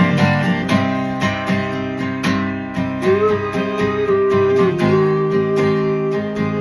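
Acoustic guitar strummed in a steady rhythm, with a long held note over the chords from about three seconds in.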